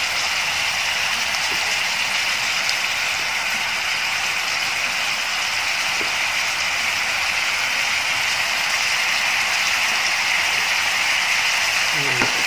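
Sliced meat and baby corn sizzling steadily in a frying pan of sauce.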